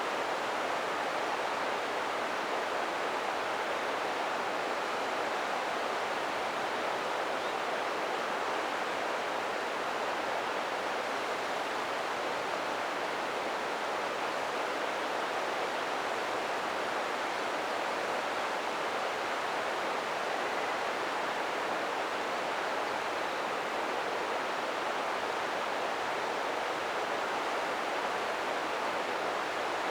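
River water flowing: a steady, unbroken rushing.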